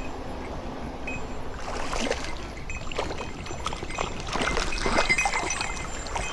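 Mountain stream water running, with irregular splashing in the water starting about a second and a half in.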